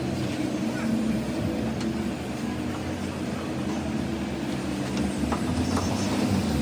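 Steady low mechanical hum from a running machine, with a few light clicks.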